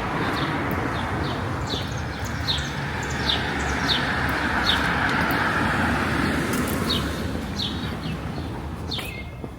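A vehicle driving past on the street, its noise swelling and then fading near the end, while a bird chirps over it, short high chirps about twice a second.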